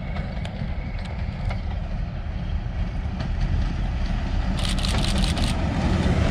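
A train approaching, its low rumble growing steadily louder, with a short burst of high crackling noise about five seconds in.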